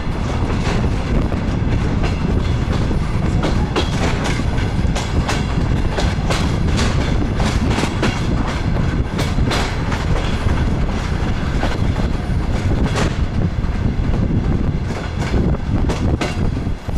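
DR1A diesel railcar in motion: a steady low rumble with the wheels clicking over rail joints, its level dropping suddenly just before the end.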